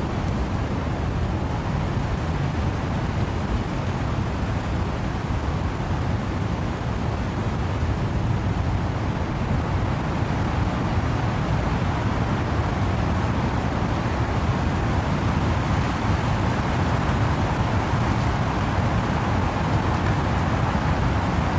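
Wind and rain in trees: a steady rushing noise, heaviest in a low rumble, swelling slightly in the second half.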